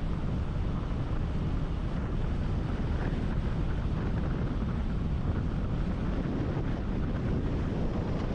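Steady wind buffeting on the microphone with a low, even rumble underneath.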